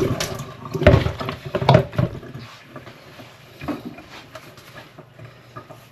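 Kitchen tap shut off at the start, followed by a few knocks and clatters of pig feet pieces and dishes being handled at the sink, two close together in the first two seconds and one more a little later.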